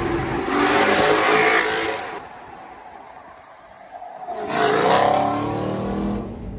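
A car engine revving twice, once early on and again after a quieter gap, the second time with the pitch dipping and then climbing.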